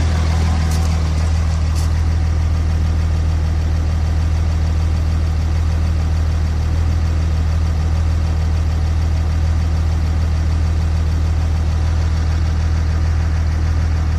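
6.7-litre diesel engine idling with a steady low drone; the idle is rough.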